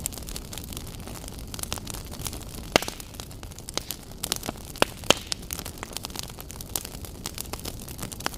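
Wood fire burning in a fireplace: a steady hiss with irregular sharp crackles and pops, a few louder pops about 3 and 5 seconds in.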